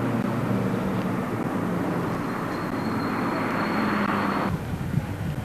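FS D345 diesel-electric locomotive running, a steady engine drone with a faint high whine in the second half. The sound cuts off abruptly about four and a half seconds in.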